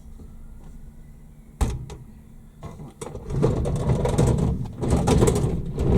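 A condenser tumble dryer is handled and rolled on its castor wheels. There is a sharp knock about one and a half seconds in, then from about three seconds loud rumbling and scraping as it moves, over a low steady hum.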